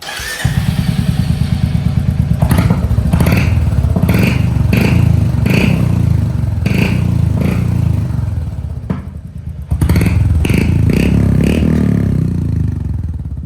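Royal Enfield Hunter 350's single-cylinder engine running through a freshly fitted KP Performance stainless-steel aftermarket exhaust, with a deep, rapid thumping note. The throttle is blipped again and again, eased off briefly about nine seconds in, then revved a few more times before the engine settles near the end.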